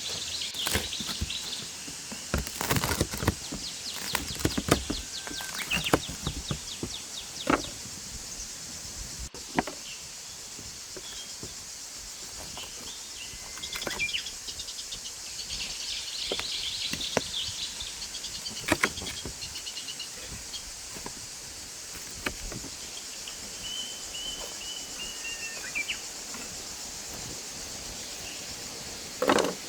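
Outdoor ambience: birds chirping and calling under a steady high hiss, with scattered sharp clicks and knocks, most of them in the first eight seconds.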